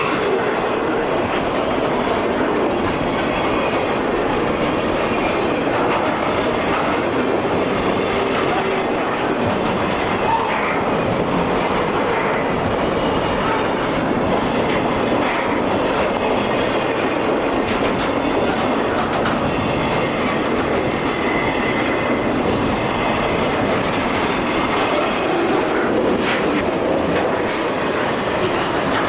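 Southern Pacific freight train's cars rolling past, a steady clatter of steel wheels on the rails with some wheel squeal.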